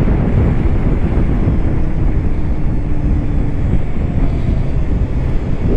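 Wind rumbling on a helmet-camera microphone as a motorcycle rolls along, with a faint steady engine hum under it.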